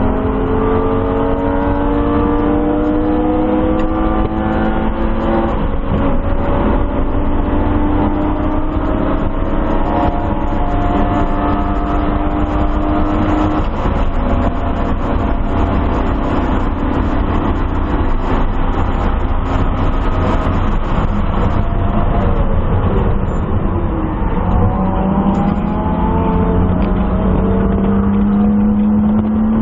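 1997 BMW M3's inline-six engine at full throttle, heard inside the caged, stripped cabin. The pitch climbs, drops at an upshift about five seconds in, then climbs again to top speed. It falls away under braking about halfway through and rises again near the end, over steady wind and tyre noise.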